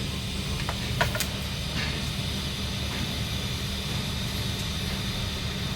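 Steady low machine hum with an even hiss over it, and a few sharp clicks about a second in.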